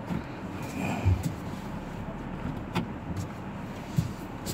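Porsche running slowly while being manoeuvred, a steady low engine rumble with a low thump about a second in and a few sharp clicks.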